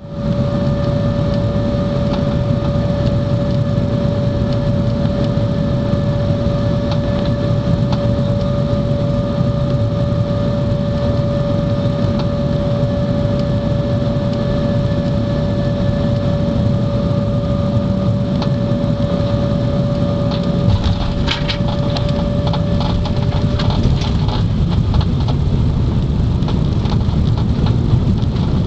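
Cabin noise of a four-engine Airbus A340 coming in to land: a steady rush and hum with one held tone. About 21 seconds in, rattling and rumble set in as the wheels touch down and roll on the runway, and the held tone stops a few seconds later.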